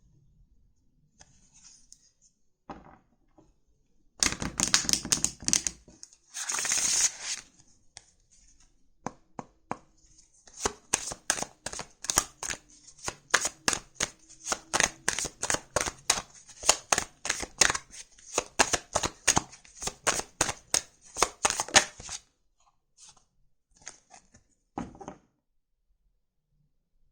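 A deck of tarot cards being shuffled by hand: a stretch of cards sliding and rustling, then a long run of quick slaps and taps, about three or four a second, stopping about 22 seconds in.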